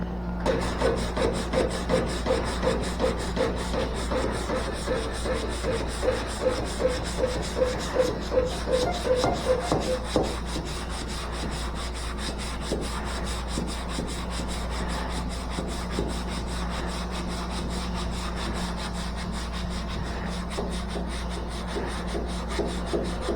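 Hand sanding of body filler on a car's sheet-metal panel, sandpaper rubbed back and forth in strokes about three times a second, then a steadier rubbing for a while before the quick strokes come back near the end.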